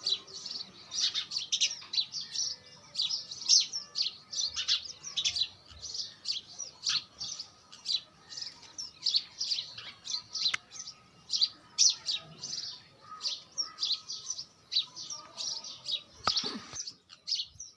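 Small birds chirping: rapid, short, high-pitched chirps repeating several times a second, with no pause.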